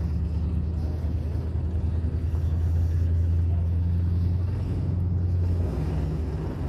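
An engine running with a steady low drone, which drops away about two-thirds of the way through and leaves a lighter, higher hum.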